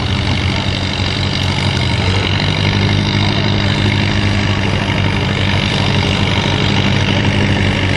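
Antique tractor's engine running loud and steady, its note changing about two seconds in.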